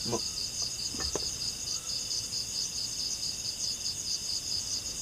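A nighttime chorus of crickets or similar insects: a steady, rapidly pulsing high-pitched trill. Two brief faint sounds stand out in it, one at the start and one about a second in.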